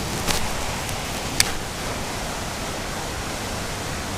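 Steady rushing outdoor noise, like running water or light rain, with two brief sharp clicks, about a third of a second and about a second and a half in.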